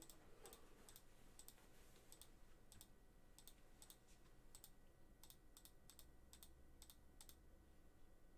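Faint, irregular clicks, about two or three a second, over near silence.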